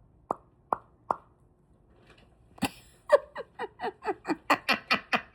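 Quaker parrot (monk parakeet) calling: three short pips, then a click, then a fast run of harsh repeated squawks, about five a second, growing louder near the end.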